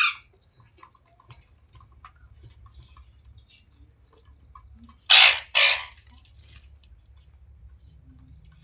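Indian ringneck parakeet giving two loud harsh screeches in quick succession about five seconds in, with faint short chirps and clicks between.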